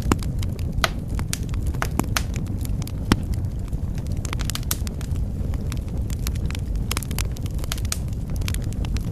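Wood fire crackling in a fireplace: irregular sharp snaps and pops scattered over a steady low rumble.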